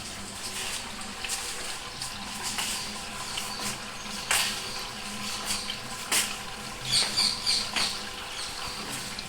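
Washing machine filling with water before its motor starts: a steady low hum and a faint even hiss of water running in, broken by scattered sharp clicks.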